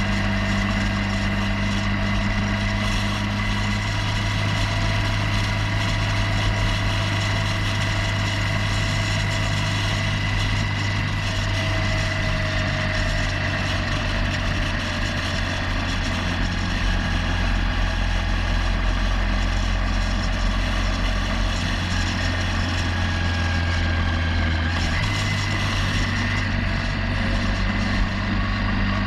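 Motorcycle engine running steadily while riding, its note shifting slightly near the end.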